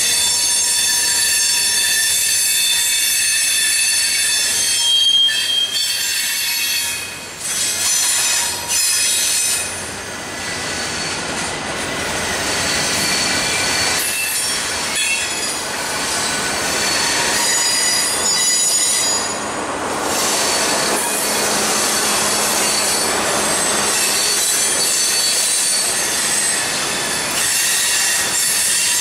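Freight train cars rolling past, their steel wheels squealing on the rails in several high, steady tones over the rolling noise of the train.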